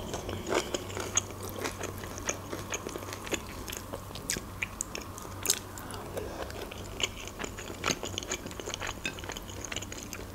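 A person chewing and biting grilled chicken close to the microphone, with many small mouth clicks.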